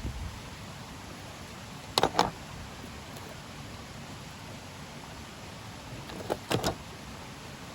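Two pairs of short knocks or clinks from camp cookware being handled, about two seconds in and again about six and a half seconds in, over a steady hiss.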